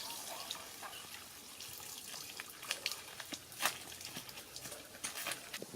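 Water running with a steady hiss, broken by a few sharp splashes or drips, as of rinsing something in water.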